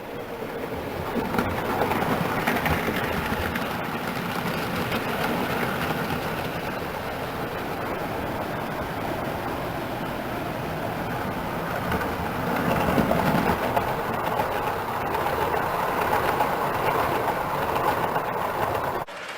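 Model railway train running along the layout's track: a steady rumble of wheels on rails, growing a little louder about two seconds in and again near the two-thirds point as it passes closer.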